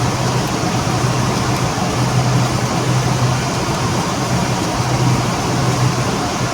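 Loud, steady machinery noise with a low hum that swells and fades every second or two.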